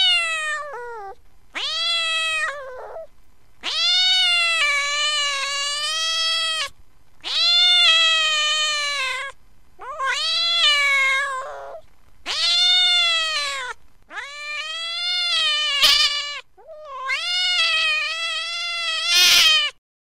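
Recorded cat yowling in distress: about eight long, drawn-out meows in a row, each ending with a fall in pitch. This is the sound of a pretty upset cat.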